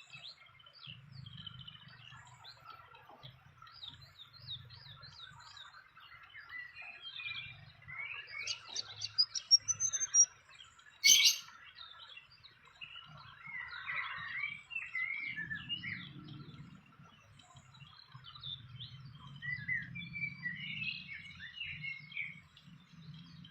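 Small birds chirping: scattered high chirps throughout, with a quick run of loud rising notes about eight to ten seconds in, followed by a single sharp click.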